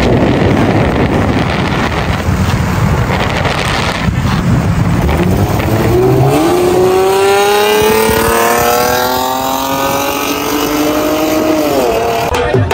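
Cars at speed with a steady rumble of engine and road noise, then an engine accelerating hard, its pitch climbing steadily for about five seconds before dropping off near the end.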